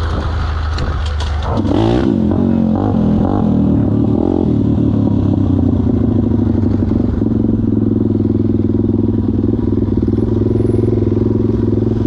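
Pit bike engine revving up and down a few times, then running at a steady pitch, with some clattering at the start.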